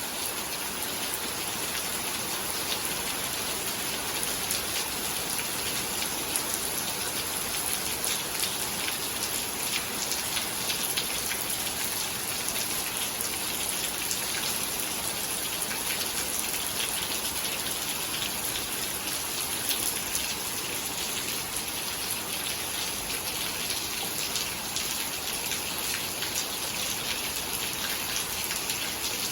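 Steady rain falling, a dense sound of many small drops hitting surfaces, holding at an even level throughout.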